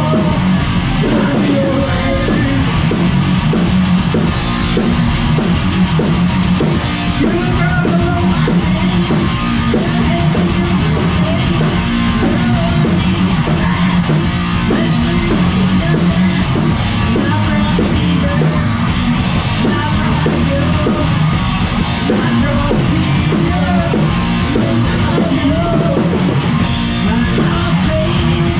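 Loud heavy metal music with distorted electric guitars and drums, and some singing.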